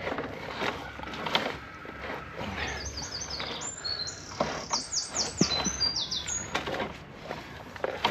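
A songbird singing a run of quick, high whistled notes from about two and a half seconds in to near the end, over scattered clicks and knocks.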